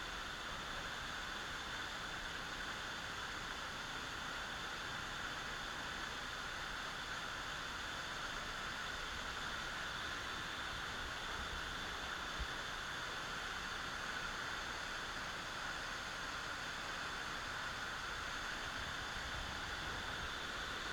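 Stepped waterfall pouring over rock into pools, a steady rushing noise.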